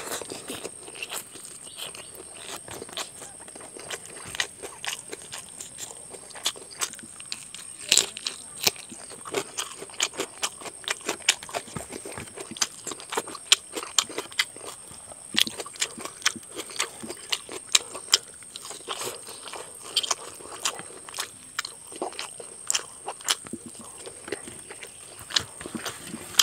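Close-up mouth sounds of a man eating rice and chicken curry with his fingers: chewing and lip smacking, many short wet clicks at irregular intervals, over a faint steady high-pitched whine.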